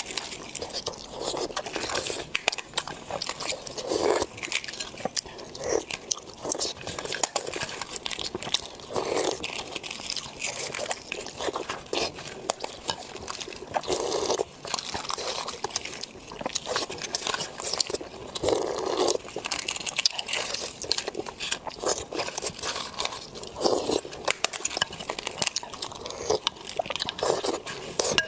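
Close-miked chewing and biting of food, with dense small crunching clicks throughout and a thicker mouthful sound every few seconds.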